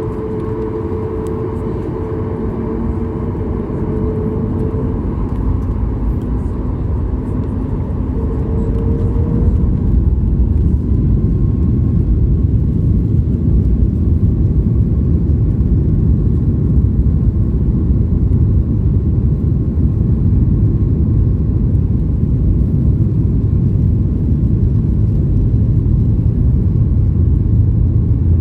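Boeing 737 MAX 8-200's CFM LEAP-1B turbofans heard from the cabin during takeoff: about ten seconds in the engines spool up to takeoff thrust, and a deep, loud rumble builds and then holds steady.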